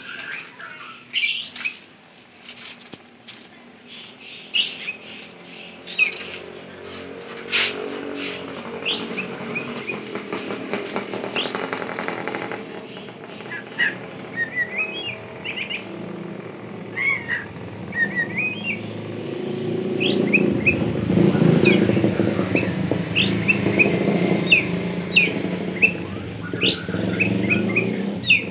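A pet songbird chirping in short, quick rising notes, repeated throughout. A low background rumble swells in from about two-thirds of the way through.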